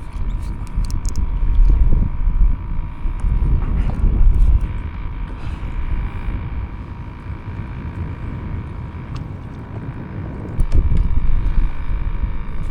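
Wind buffeting the microphone and water sloshing around a kayak at sea, an uneven low rumble that swells and fades, with a faint steady whine running underneath.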